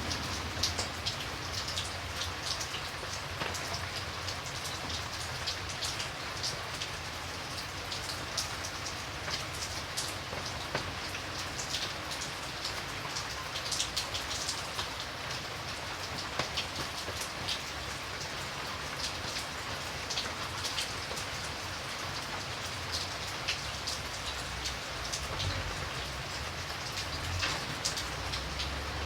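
Steady rain falling, with many distinct drops ticking on a surface over a constant hiss and a low rumble underneath.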